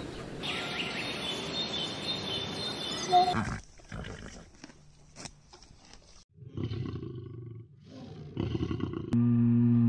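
A steady hiss with thin high whistling tones for the first few seconds, then a lion roaring in a series of low, pulsing grunts. Near the end a loud, held, howl-like call begins and is the loudest sound.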